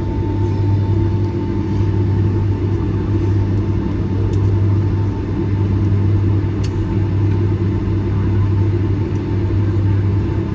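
Steady low rumble inside the cabin of a Boeing 757-200 on the ground after landing, with a faint steady whine above it and a few light clicks.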